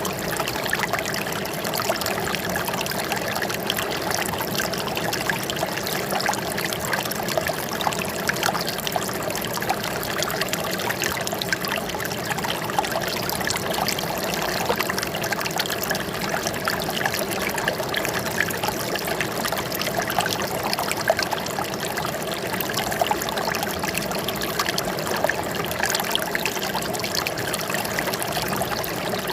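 Running water trickling and splashing steadily, a dense patter of small drips and splashes over a constant rushing.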